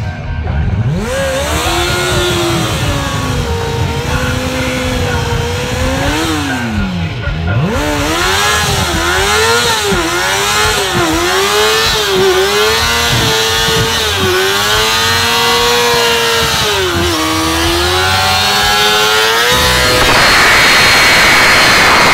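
Yamaha YZF sport bike's inline-four engine revved hard again and again during a burnout on grass, the pitch rising and falling more than once a second. Near the end it gives way to a louder, steady rushing noise.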